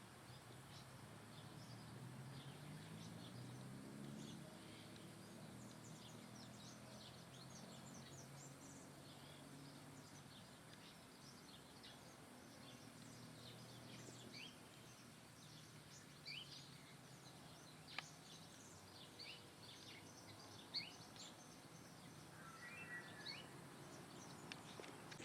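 Faint chirping of small birds: many short, high chirps scattered throughout. Underneath, a low wavering hum runs through the first half, and there is a single sharp click about eighteen seconds in.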